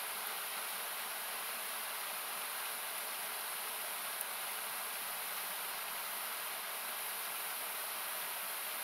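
Steady rushing of a nearby river, heard as an even, static-like hiss with parts cut out by an equaliser. A couple of faint crackles from the campfire stand out, once near the start and once about halfway.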